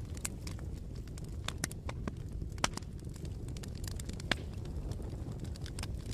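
Wood bonfire crackling, with irregular sharp snaps and pops over a low steady rumble of the flames; two pops about two and a half and four seconds in stand out above the rest.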